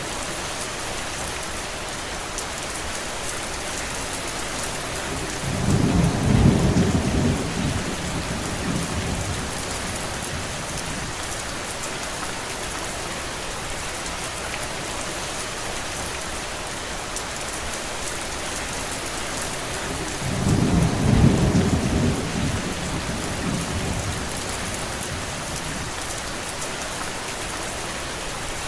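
Steady rain hissing, with two low rumbles of thunder, one about six seconds in and another about fifteen seconds later, each swelling and fading over about three seconds.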